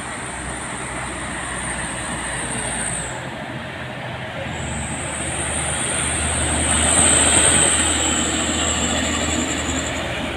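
Heavy diesel truck engine running on a steep climb after failing to make it up the hill, with a steady high-pitched whine over it. The whine drops out for about a second and a half a few seconds in. The noise grows louder toward the middle.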